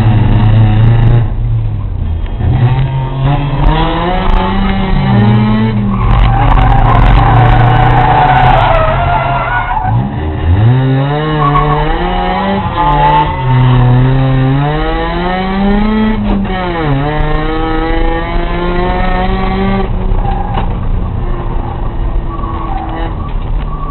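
A racing sports car's engine revving up and dropping back again and again as it accelerates and lifts through the corners. The tyres squeal for a few seconds about a quarter of the way in.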